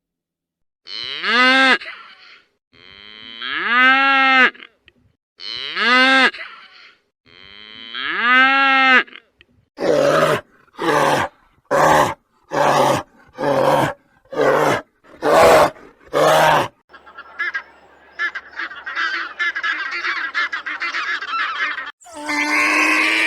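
A run of different animal calls: four long pitched calls that each rise and fall, then seven short sharp calls about one a second, then several seconds of busy high-pitched chattering.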